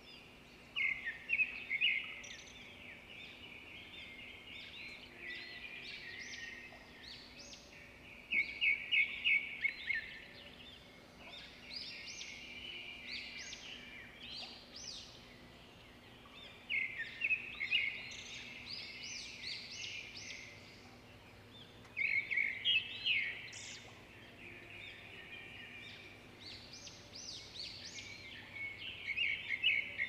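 Birds calling in loud bursts of rapid, chattering notes that recur every several seconds, with quieter chirps between them.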